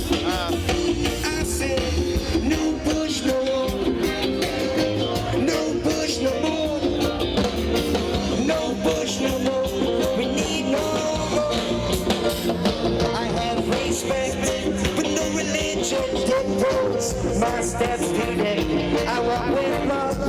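Live roots reggae band playing an instrumental passage with a steady groove.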